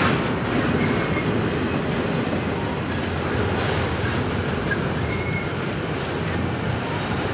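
Double-stack intermodal freight train's well cars rolling past at close range: a steady rumble of steel wheels on rail, with two brief faint wheel squeals.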